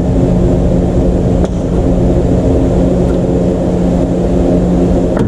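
A steady mechanical hum holding one constant pitch, with two faint clicks, one about a second and a half in and one near the end.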